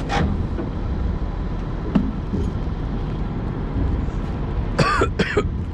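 Steady low engine rumble from heavy machinery, with a sharp knock at the start and another about two seconds in. Near the end there is a brief high, falling sound.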